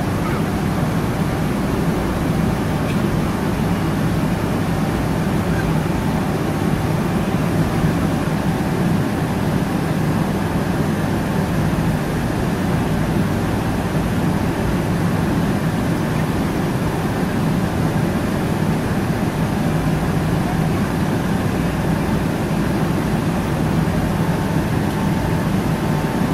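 Steady low drone of cabin noise inside a Boeing 777-300ER, the engines and airflow making an even rumble with a faint hum and no change in level.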